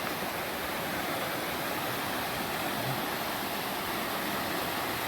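A rain-swollen river rushing over rocks and rapids: a steady, even rush of water.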